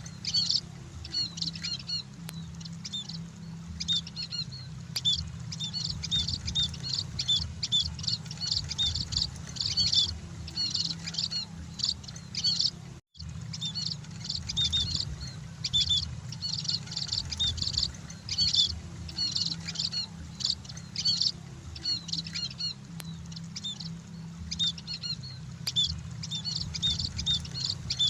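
Flock of munias (emprit) chirping continuously, many short high calls overlapping, over a steady low hum. The sound cuts out completely for a split second about halfway through.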